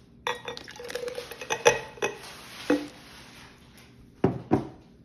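Clinks and clatter of a small cup against a container as yeast solution is poured into the hydrogen peroxide mix, in a quick run of knocks, followed near the end by two sharp knocks of things being set down.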